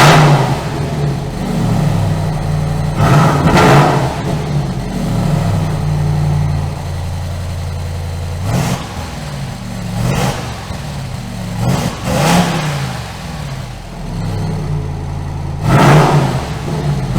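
Dodge Ram TRX's supercharged 6.2-litre V8 through a Guerrilla Bypass cutout exhaust, idling with a steady low note and revved in about six short throttle blips that rise and fall back to idle.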